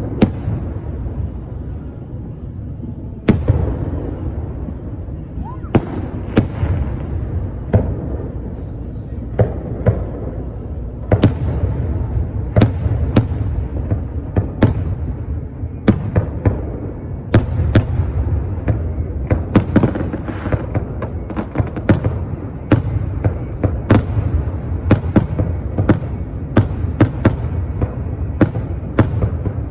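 Fireworks going off: dozens of sharp bangs at irregular spacing, coming thicker in the second half, over a continuous low rumble. A faint steady high-pitched whine runs underneath.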